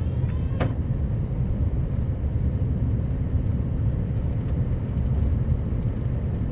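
Scania R560 plow truck's V8 diesel running steadily under way, a dense low rumble mixed with road and plow noise. A single short click about half a second in.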